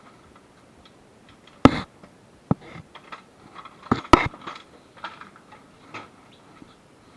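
Irregular clinks and knocks of hand tools and parts being handled during engine removal, with a few sharp knocks at about two and four seconds in and lighter ticks between them.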